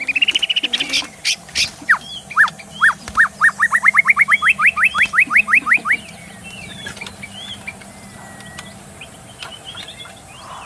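White-rumped shama (murai batu) singing: a quick rising trill, then a run of downward-sliding whistled notes that speeds up and climbs in pitch for about four seconds and stops abruptly. After that there are only faint scattered chirps and a thin steady whistle.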